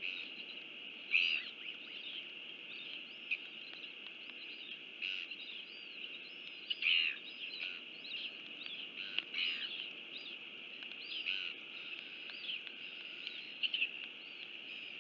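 Small birds chirping in short bursts every second or two, over a steady high-pitched hum and a low background hiss.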